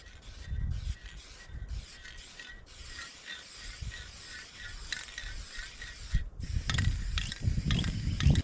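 Wind buffeting the microphone in gusts, with a run of small, quick mechanical clicks in between.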